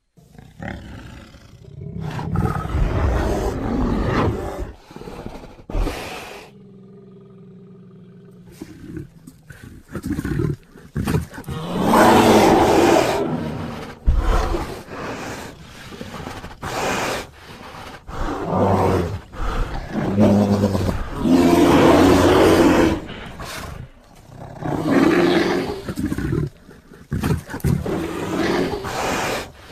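Brown bear growling and roaring in a string of separate calls of varying length, as a film sound effect. A short lull with a low steady hum comes a few seconds in, and the loudest roars come about halfway and two-thirds of the way through.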